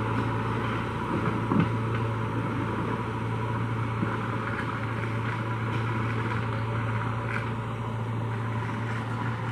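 A heavy diesel engine running steadily at an even speed, with a brief knock about one and a half seconds in.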